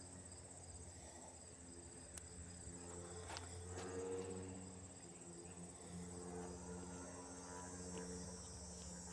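Crickets chirping in a steady, high-pitched evening chorus. A faint low hum comes and goes beneath it.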